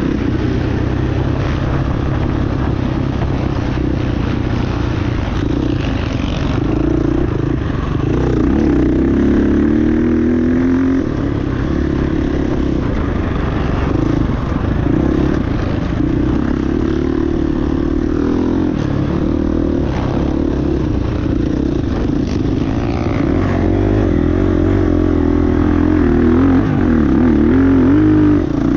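Motocross motorcycle engine running hard and revving, its pitch rising and falling with the throttle.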